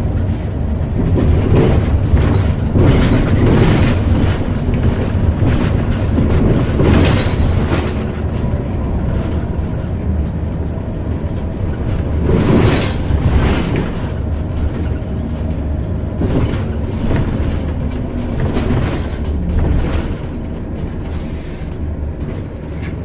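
Scania OmniCity single-deck bus heard from inside at the front: engine and road noise running steadily, with cabin rattles and several short, sharp noises along the way. The sound gets a little quieter over the last few seconds.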